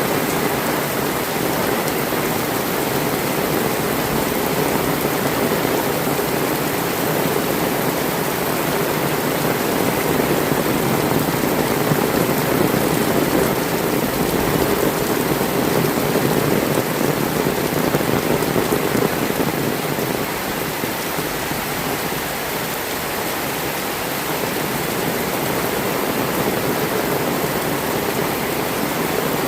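Heavy rain falling steadily as a dense, even hiss. It grows a little louder in the middle and eases slightly about twenty seconds in.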